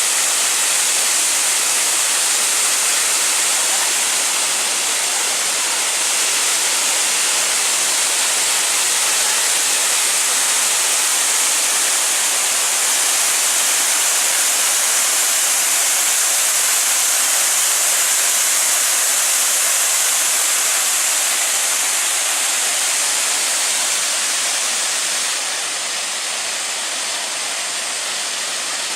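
Waterfall: a steady rush of falling water, a little quieter for the last few seconds.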